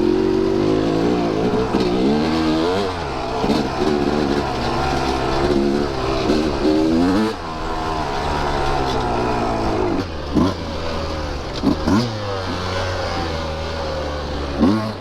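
Husqvarna TE150 two-stroke dirt bike engine under riding load, revved up and down again and again in quick swells. After about eight seconds it runs lower and steadier, with a few short throttle blips.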